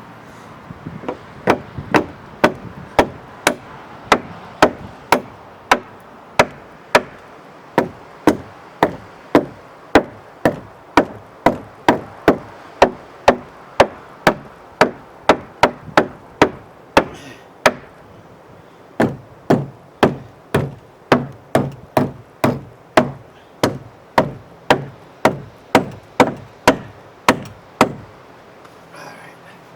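Hammer blows on wood, a long steady run of sharp strikes at about two a second, with a short pause about eighteen seconds in.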